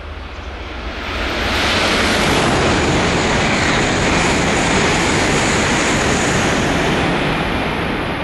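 E2 series Shinkansen passing through a station at full line speed without stopping: a rushing noise of air and wheels on rail that swells about a second in, stays loud while the cars sweep past, and eases off near the end.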